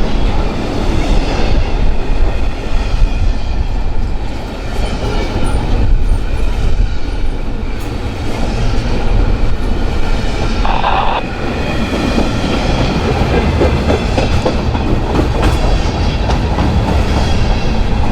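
Train rolling past at close range, its steel wheels rumbling and clattering over the rail joints. A brief higher-pitched sound stands out about eleven seconds in.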